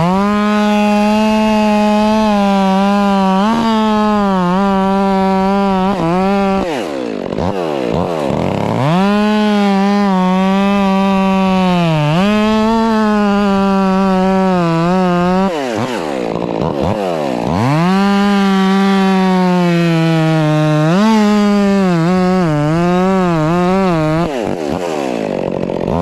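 Stihl MS 400 C two-stroke chainsaw running at high revs while cutting firewood logs. Its engine note wavers and sags as the chain loads up in the wood. Three times it drops back off the throttle and revs up again: about seven seconds in, around sixteen to eighteen seconds, and near the end.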